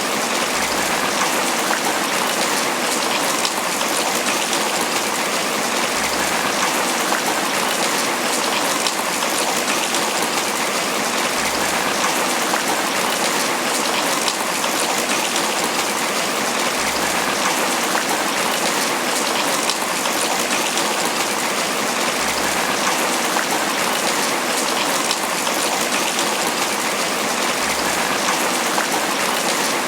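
Steady heavy tropical rain falling on banana leaves: a dense, even patter of countless drops that holds constant throughout.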